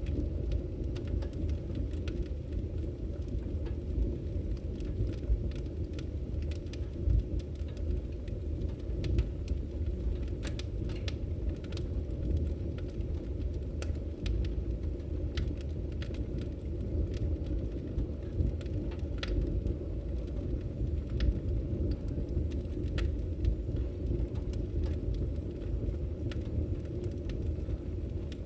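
Wood fire crackling in a fireplace: a steady low rumble of burning with many small sharp pops and snaps scattered irregularly throughout, a few of them louder.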